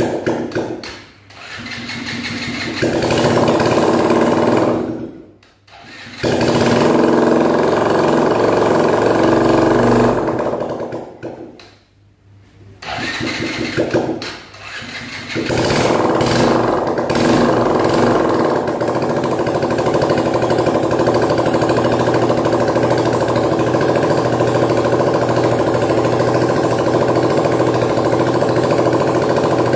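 Bajaj Discover 135's single-cylinder four-stroke engine being started for the first time after a rebuild with a new timing-chain adjuster. It catches and dies several times in the first quarter-minute, then keeps running steadily.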